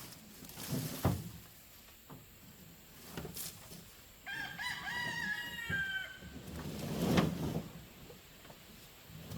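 A rooster crowing once, a call of about two seconds starting about four seconds in. Dull knocks and rustling come before and after it, the loudest just after the crow.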